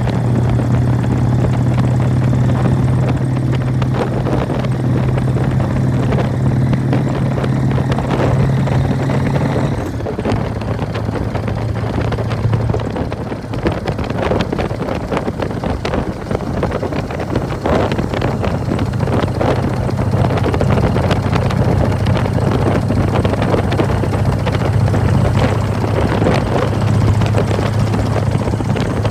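1999 Harley-Davidson Fat Boy's Evolution V-twin running through Python mufflers while riding, a steady low exhaust note with the rattle of its open primary. About ten seconds in the engine note eases off for several seconds, then settles back into a steady run.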